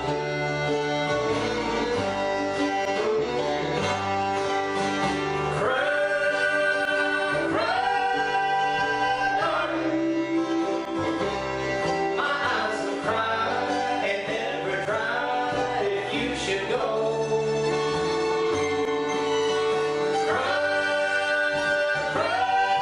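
Acoustic bluegrass band playing a song, with guitar, fiddle and double bass and a voice singing over them.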